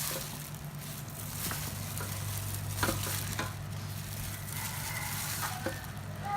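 Food sizzling in a pan, with the clicks and scrapes of a utensil stirring it, over a steady low hum.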